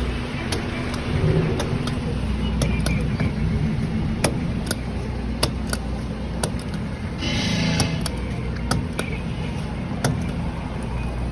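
A 1999 Chevrolet K1500 Suburban's engine running with a steady low rumble. Scattered sharp clicks sound over it, and a short hiss comes about seven seconds in.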